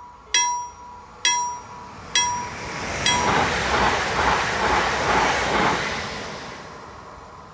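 KLD-40 level-crossing warning bell sounding four sharp strikes about a second apart, the last one faint, then falling silent. An EN76 electric multiple unit passes through the crossing with a rushing rumble of wheels on rail that swells to its loudest in the middle and fades as the train clears.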